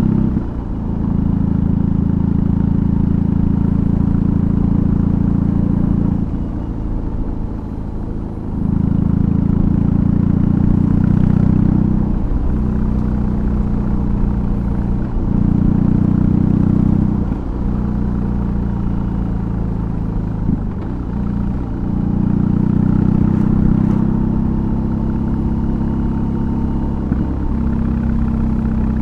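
BMW R18's 1,802 cc air/oil-cooled boxer twin running through a custom exhaust while riding, the throttle opening and closing and the engine note stepping up and down in pitch every few seconds as the rider changes gear and speed. It eases off twice, for a couple of seconds each time, before pulling again.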